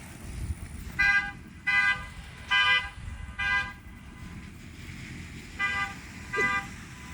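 Vehicle horn honking in short toots: four beeps about a second apart, a pause, then two more.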